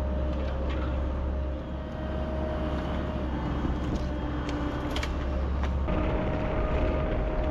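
Diesel excavator running under work, with a heavy steady engine rumble and a steady whine over it. The engine eases briefly under 2 seconds in, and a few sharp knocks come around the middle.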